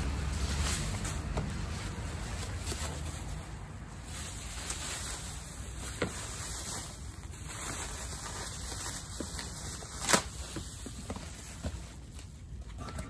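Bubble wrap and plastic film rustling and crinkling as they are pulled off a chrome exhaust silencer, with a few light clicks and one sharp tap about ten seconds in.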